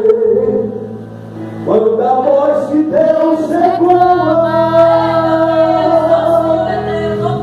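Congregational gospel worship singing, voices singing together over instrumental accompaniment, with a brief lull about a second in and a long held note from about three seconds on.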